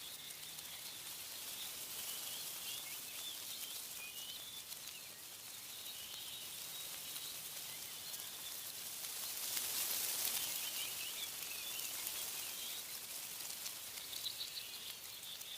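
Small birds chirping and twittering over a steady rustle of wind in tree leaves; the rustle swells for a couple of seconds about ten seconds in.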